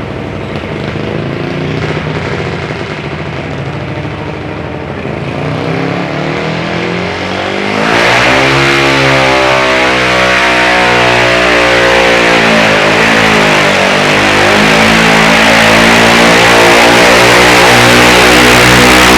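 Garden pulling tractor engine running, then about eight seconds in suddenly getting louder and revving up, its pitch rising and wavering as it stays at high revs.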